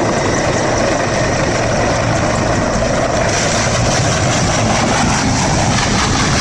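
Loud, steady aircraft engine noise, a dense rushing drone that turns a little brighter about three seconds in.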